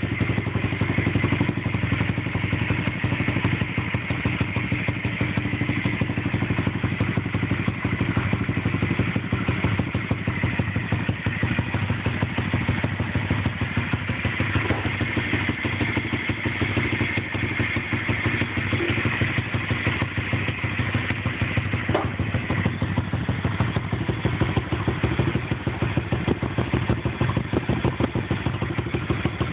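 A 110cc pit bike's single-cylinder four-stroke engine idling steadily.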